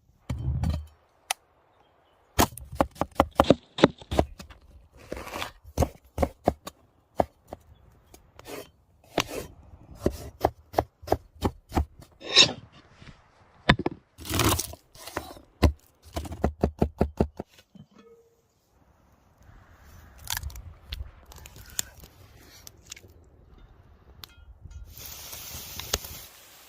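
Food-preparation handling sounds: many sharp knocks, clicks and scrapes of utensils and food, including a quick, even run of strokes like chopping about two-thirds of the way through. In the last couple of seconds a steady hiss begins, like food starting to sizzle.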